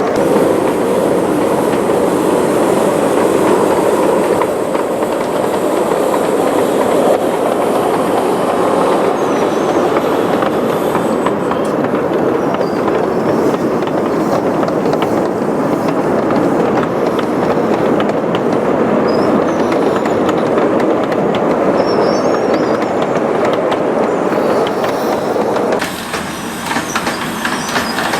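Train on the Portola Valley and Alpine Railroad running along its track: a steady rumble and clatter of wheels on rail. The running noise drops suddenly near the end.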